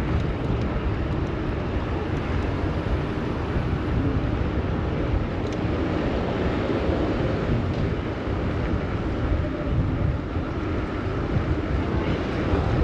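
Steady street noise heard from a moving bicycle: a constant rumble of city traffic with wind on the microphone.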